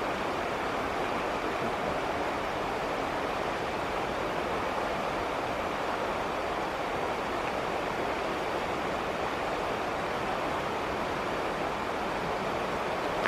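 Steady rush of flowing river water, an even hiss with no change.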